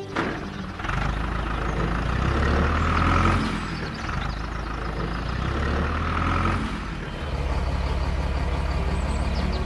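Truck engine sound running, revving up twice, then settling into a steady pulsing idle from about seven seconds in.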